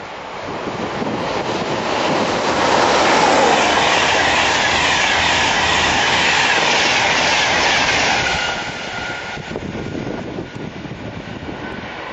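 InterCity 225 electric express (Class 91 locomotive with Mark 4 coaches) running through close by at speed, its wheels clattering rhythmically over the rail joints. It builds up over the first couple of seconds, is loudest as the coaches rush past, and dies away after about eight seconds.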